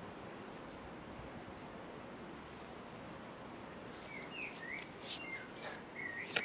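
Steady wind noise, with a small bird chirping a string of short notes from about four seconds in, among a few sharp clicks.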